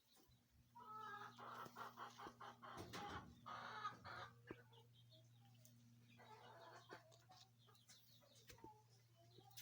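Chickens clucking faintly, in clustered calls during the first few seconds and again about seven seconds in, with a steady low hum underneath.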